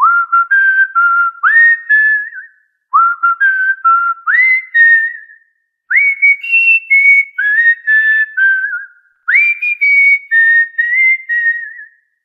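Cockatiel whistling: four short phrases, each opening with a quick upward swoop and then a few held notes with small steps in pitch. The later phrases sit higher than the first ones.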